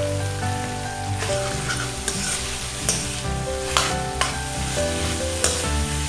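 Chicken and chopped radish greens sizzling in a metal wok while a metal ladle stirs them, with several sharp scrapes and knocks of the ladle against the pan. Background music with held notes plays underneath.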